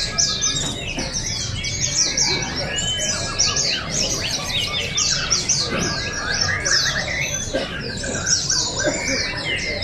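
Many caged white-eyes (pleci) singing at once: a dense, continuous chorus of rapid, high, falling chirps and short whistled trills.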